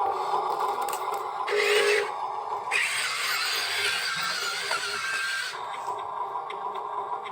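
Small electric motors and gearboxes of radio-controlled construction models whirring in short runs, starting and stopping several times, with a brief steady hum about one and a half seconds in.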